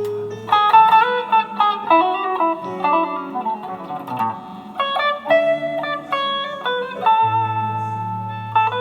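Guitar playing melodic lead lines, quick runs of single notes alternating with long held notes, over low sustained bass notes.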